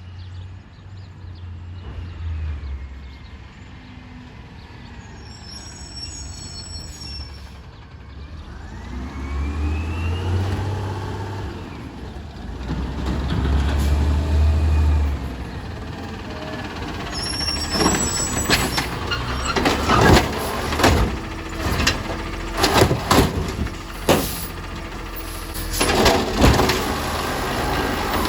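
Recycling garbage truck running, its engine rising and falling in pitch, with a few short high beeps. From about 17 seconds in, a run of loud clanks and bangs follows.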